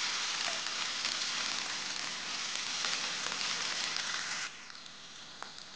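Chopped onions, green chilli, curry leaves and ginger-garlic paste sizzling steadily in hot oil in a kadai as they sauté. The sizzle cuts off abruptly about four and a half seconds in, leaving a faint hiss.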